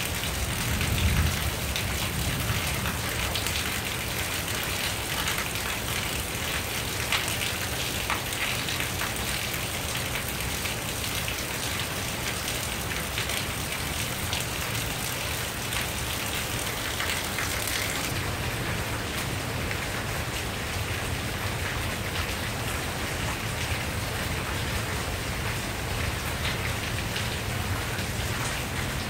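Steady rain falling during a thunderstorm, with a dense patter of individual drops. There is a brief low rumble about a second in.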